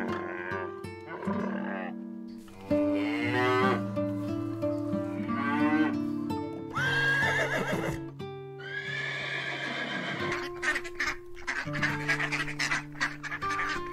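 A string of farm animal calls over light acoustic guitar music: a camel near the start, cattle mooing in the middle, and geese honking near the end.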